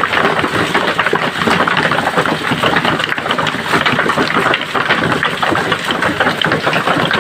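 Hail and rain pelting down, a dense, continuous clatter of many small impacts.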